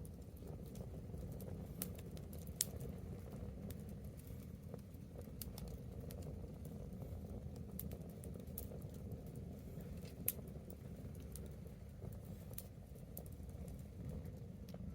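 Wood bonfire crackling with irregular small snaps, and two sharper pops, one a few seconds in and one about ten seconds in, over a low steady rumble.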